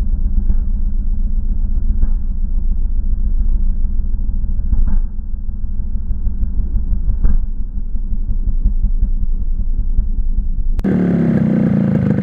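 Yamaha RX100 two-stroke single-cylinder motorcycle engine running with a low, steady exhaust rumble and a few sharp crackles. Near the end the audio cuts to a brighter, clearer recording of the exhaust note.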